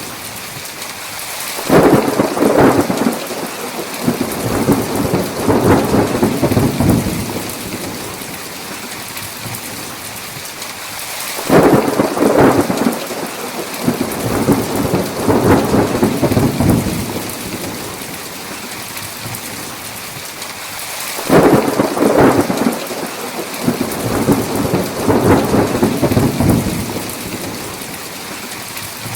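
Thunderstorm: steady heavy rain with three rolls of thunder about ten seconds apart. Each breaks in sharply and rumbles for about five seconds before fading back to the rain.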